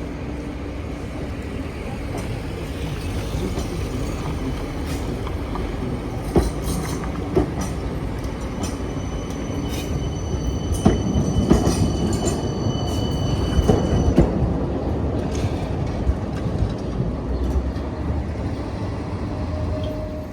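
PKTS 71-931M Vityaz-M tram running, heard from on board: a steady rumble of wheels on rail with scattered knocks. A thin high whine joins about nine seconds in and fades about five seconds later, as the ride grows louder.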